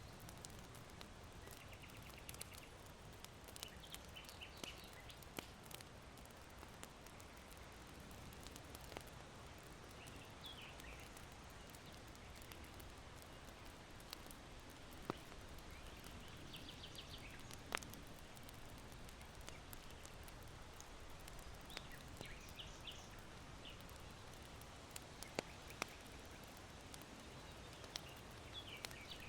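Charcoal fire in an irori hearth giving occasional sharp pops and crackles, with small birds chirping in short bursts every few seconds over a faint steady wind hiss.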